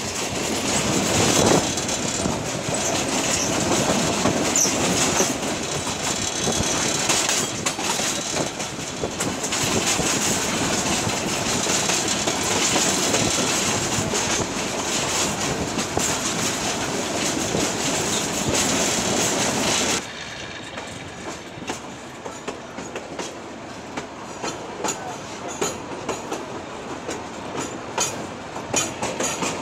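Passenger train heard from on board, its carriage wheels running and clattering over the rail joints. About two-thirds of the way through, the sound drops abruptly to a quieter stretch of scattered wheel clicks.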